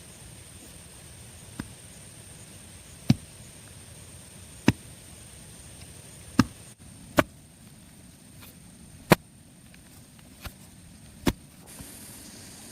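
A series of single sharp chopping strikes, about nine, spaced irregularly a second or two apart, each one short with no ringing after it.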